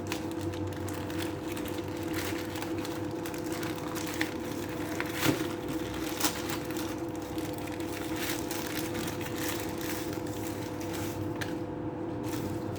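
Packaging crinkling and small clicks of handling as a motorcycle helmet lock is unboxed, with a few sharper clicks around the middle, over a steady background hum.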